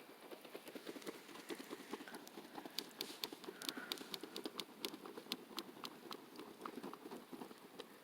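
Small fire crackling faintly: a dense run of soft crackles with sharper pops, thickest from about three to six seconds in.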